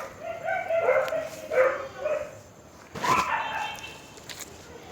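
An animal calling: a run of short, wavering, whining calls, then a louder cry with a sharp start about three seconds in.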